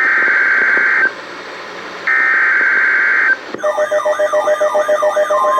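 EAS SAME header data bursts from NOAA Weather Radio, the coded header that starts an alert broadcast: two buzzy digital bursts of about a second each, a second apart, the last two of three repeats. About three and a half seconds in, an electronic alert tone starts, with a rapidly repeating siren-like warble and a steady tone joining near the end.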